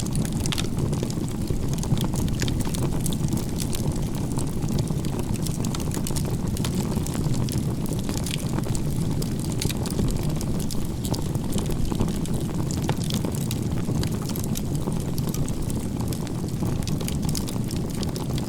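Crib-stacked firewood burning, with a steady low rush and many small crackles and pops scattered through it.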